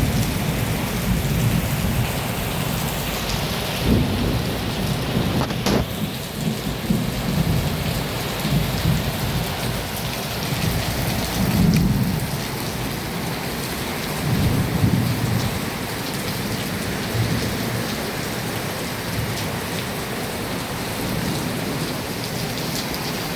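Heavy rain of a summer thunderstorm pouring down steadily, with several low rolls of thunder swelling and fading and one sharp thunder crack about six seconds in.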